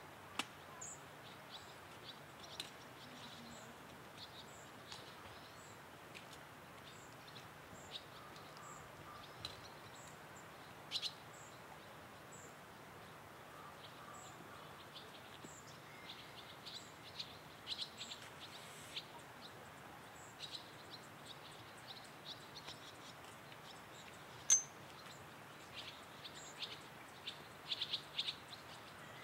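Small birds chirping: a thin, high note repeated about once a second, with scattered clusters of quicker chirps, over a steady faint hiss.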